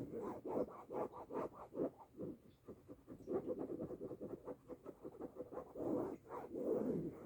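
Close-miked scratching in quick, irregular strokes, several a second, with short pauses between runs.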